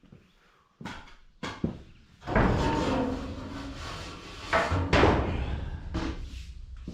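A few sharp knocks, then a broom scraping and brushing debris out from under a riding lawn mower's deck, with a couple of harder strokes in the middle.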